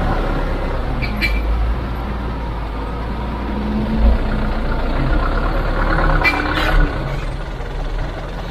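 Heavy diesel machine engine running steadily, with short sharp metallic sounds about a second in and again about six to seven seconds in.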